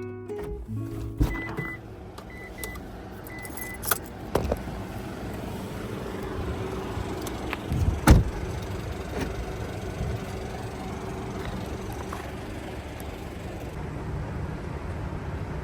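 Sounds in and around a kei van: a few short high beeps, some clicks, and a loud door thump about eight seconds in, followed by a steady hum.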